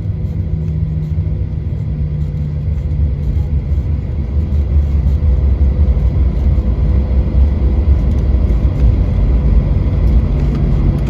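Boeing 737 cabin noise on the ground after landing: a loud, steady low rumble of engines and rolling wheels with a steady hum over it. It grows louder about a third of the way through.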